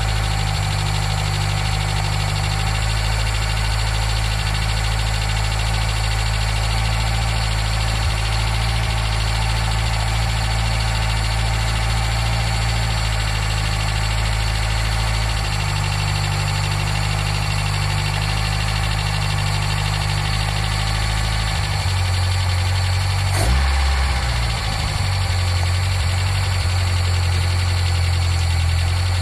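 K10 Nissan Micra's small four-cylinder carburettor engine idling steadily on a cold start, its newly adjusted automatic choke still shut. About 22 seconds in the idle note changes, and a single sharp click follows shortly after.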